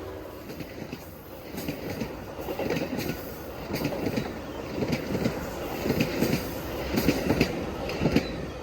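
Metra commuter train rolling past, its wheels rumbling on the rails with irregular sharp clacks as the wheels pass over rail joints.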